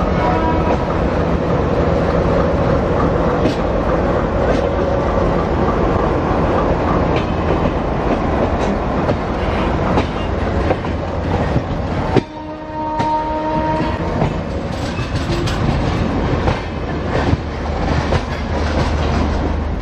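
Passenger train running through a station yard, its wheels clattering over rail joints and points in an irregular run of clicks under a steady rumble. The noise dips suddenly about twelve seconds in, and a short steady tone sounds for a moment before the running noise resumes.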